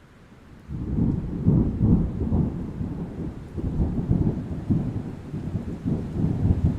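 Thunder: a loud rolling rumble that breaks in suddenly under a second in and keeps rumbling in swelling waves, with rain beneath it.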